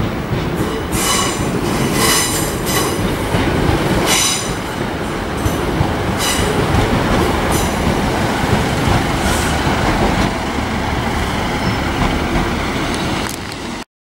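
East Midlands Trains diesel multiple unit passing close along the platform road, its engine and wheels running steadily, with repeated high-pitched wheel squeals in the first half. The sound cuts off suddenly near the end.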